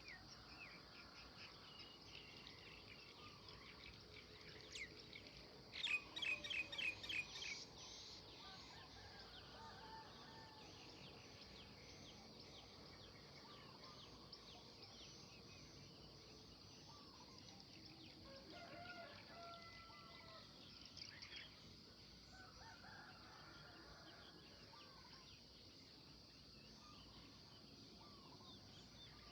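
Songbirds chirping and singing, with a loud burst of rapidly repeated notes about six seconds in, over a steady high hiss.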